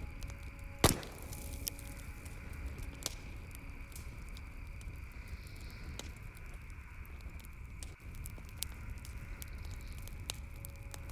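Campfire wood crackling, with irregular sharp pops and one loud pop about a second in, over a low steady rumble.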